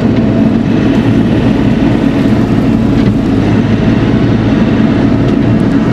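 Bobcat E42 mini excavator's diesel engine running steadily and loud, close to the machine.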